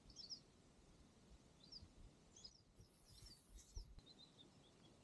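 Near silence with faint bird chirps: several short high notes scattered through, and a brief soft hiss about three seconds in.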